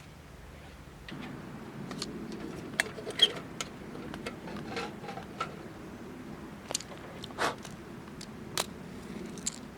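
Assorted sharp clicks, taps and light scrapes of objects being handled, over a steady low background rumble that steps up about a second in.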